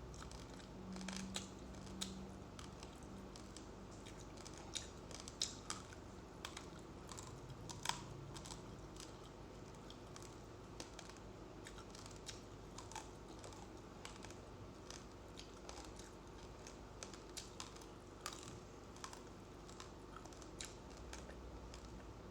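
Faint, irregular crisp crunches and clicks of a person chewing uncooked rice grains close to the microphone, coming thicker in the first half and sparser later.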